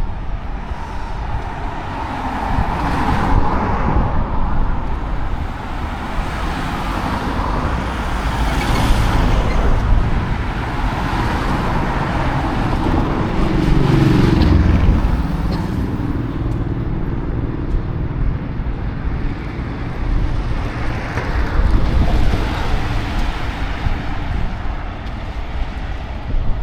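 Steady road traffic noise from cars passing. A louder engine passes about halfway through.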